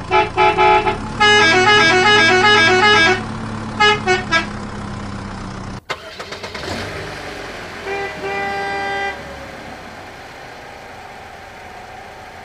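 Vehicle horns tooting: a few short beeps, then a quick stepping horn tune, then more short beeps, over a steady low engine hum. The sound cuts off abruptly about halfway, and a quieter hum follows with one held horn toot about a second long.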